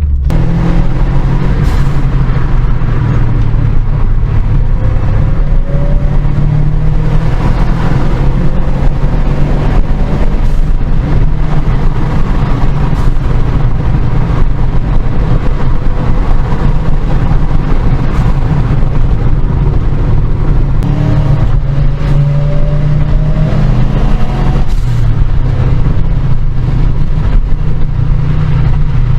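Car engine running as the car is driven, its pitch rising several times as it accelerates, over steady road and wind noise.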